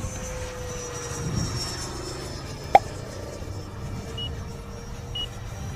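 Electric ducted fan RC jet whining in flight: a thin high whine that slides slowly lower over a low rumble. A single sharp click comes a little under halfway through and is the loudest sound, and short high beeps sound about once a second near the end.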